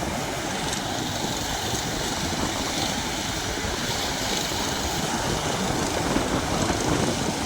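A boat's engine running steadily as the boat moves off, heard as an even, unbroken rumble and rush.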